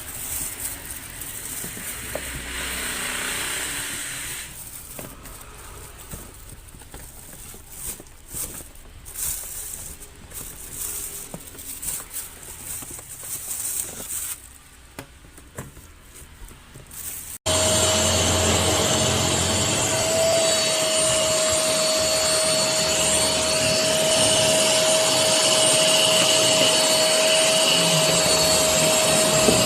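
The LENODI 15-litre wet/dry vacuum cleaner's motor starts abruptly partway through and runs steadily at full power with a constant whine and a loud rush of air. Before it starts there are quieter, irregular clicks and handling sounds.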